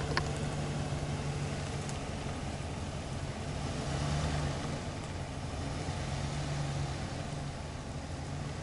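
Box truck camper's engine running steadily at low speed, a low even engine note, with one sharp click just after the start.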